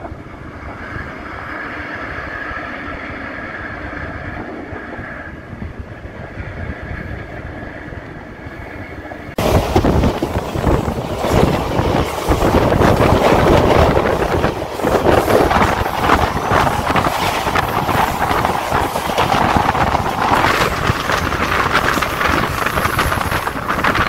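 A distant Indian Railways passenger train approaching, heard as a steady hum with faint high tones. About nine seconds in it cuts abruptly to the loud rushing rumble and rapid wheel clatter of a train heard from an open coach door while passing a train on the next track.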